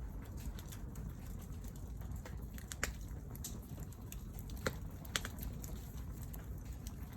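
Wood campfire crackling: scattered sharp pops and ticks, three of them louder than the rest, over a steady low rumble.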